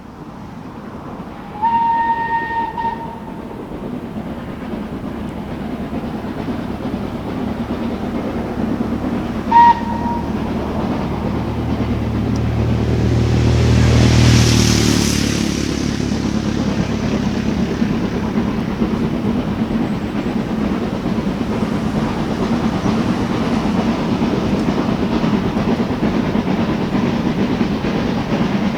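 Steam locomotive whistle sounding once for about a second, then a short toot, as the train approaches. The locomotive passes loudest about halfway through, followed by the steady rumble and clatter of coaches rolling by.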